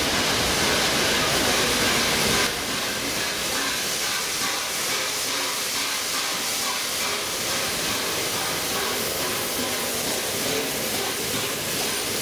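Peppercorn A1 class steam locomotive hissing steam, a steady hiss that drops a little about two and a half seconds in.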